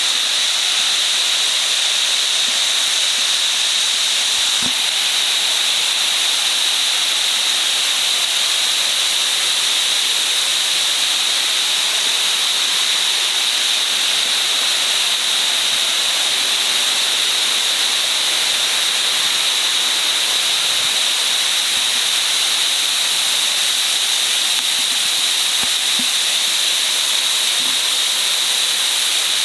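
Steady, loud hiss of water pouring down the Nabegataki waterfall, a wide curtain waterfall.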